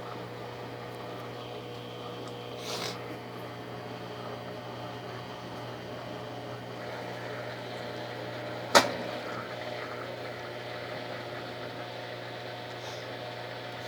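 Brastemp Ative 11 kg top-loading washing machine sitting between the spin and the rinse fill: a steady low hum, a softer knock near three seconds in, and one sharp, loud click about nine seconds in.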